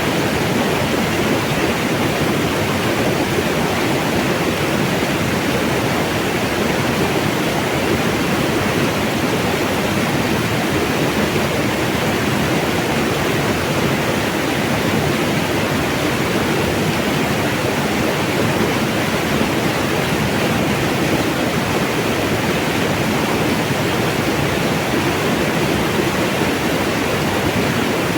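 Mountain stream water rushing and splashing, a steady unbroken flow.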